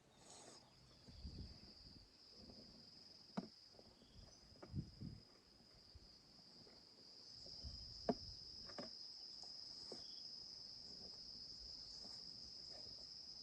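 Faint, steady high-pitched cricket trill, a little stronger in the second half, with a few soft clicks and knocks.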